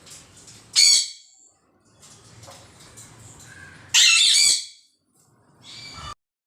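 Pet green parrot squawking: two loud, harsh squawks, the second longer, and a fainter call just before the sound cuts off suddenly.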